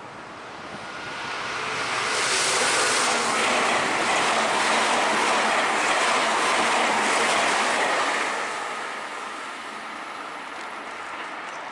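Meitetsu Panorama Super electric limited express train passing at speed: a rushing rumble of wheels on rails that builds over a second or two, holds for about six seconds, then fades away.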